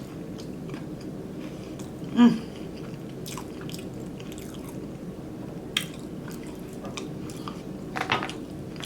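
Close-miked chewing and mouth sounds of a person eating a glazed donut chicken sandwich: soft wet smacks and clicks over a steady low hum, with one short vocal sound about two seconds in.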